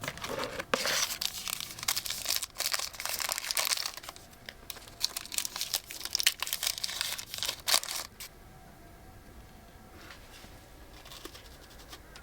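Crinkling and rustling of something being handled, dense for about eight seconds, then dying down to a faint background.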